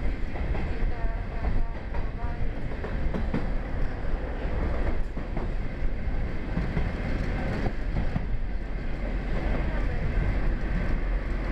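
Passenger train running along the track, heard from inside the carriage: a steady low rumble of wheels on rail.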